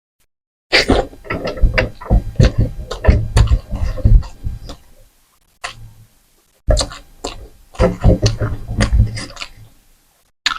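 Close-miked eating sounds: a person chewing and smacking food, a dense run of sharp wet clicks. It starts just under a second in and breaks off briefly twice midway.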